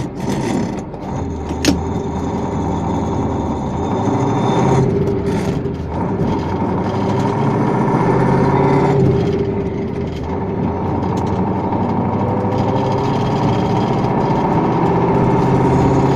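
KAMAZ 5511 dump truck's V8 diesel engine running, getting louder about four seconds in and revving up then easing back near the middle. A single sharp click just under two seconds in.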